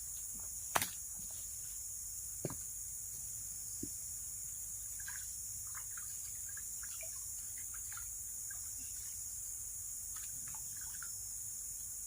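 A steady, high-pitched chorus of insects in the forest. Three sharp clicks or knocks fall in the first four seconds, the first the loudest, and faint short chirps come and go later.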